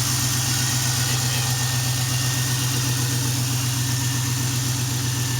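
1999 Camaro Z28's LS1 5.7-litre V8 idling steadily, not yet warmed up, with its exhaust open after the Y-pipe and dumping under the car. No ticks: the engine runs sound at 102,000 miles.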